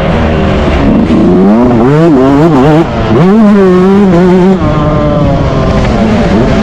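Yamaha YZ125 two-stroke motocross engine revving hard under racing throttle, its pitch climbing and falling repeatedly as the rider works the throttle and gears. The sound drops off briefly about three seconds in, then runs high and steady before falling to a lower pitch near the middle.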